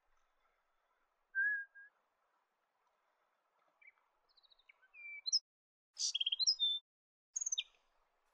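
Red-throat singing: a single short whistle, then a quick run of varied high chirps and whistled notes that peaks near the end.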